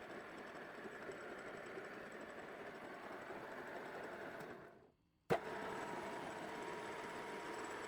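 OF-55 universal milling machine running, a steady mechanical hum. About four and a half seconds in it fades out, then comes back with a sharp click, now with a faint steady tone in it.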